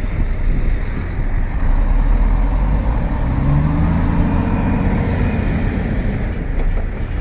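Heavy diesel truck engine running hard under load, revving up about three seconds in as it strains to get traction on slippery snow.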